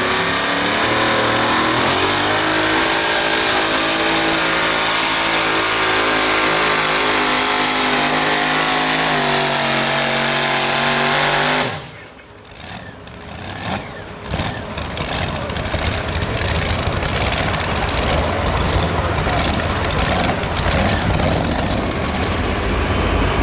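Modified pulling tractor's engine running hard at high revs, holding a steady note with slight pitch wavers, which cuts off abruptly about halfway through. After a brief quieter gap, a loud noisy rumble with crackling builds up again.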